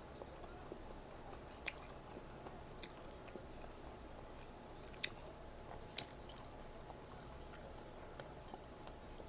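A person chewing food close to the microphone, quietly, with a few sharp crisp clicks, the loudest two about five and six seconds in.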